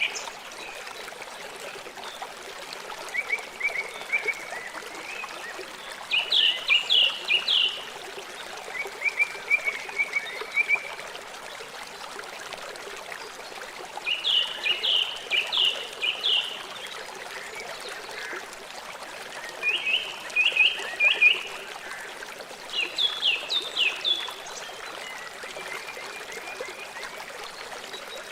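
River water flowing steadily, with runs of four to six quick, high chirping calls that come every few seconds over it.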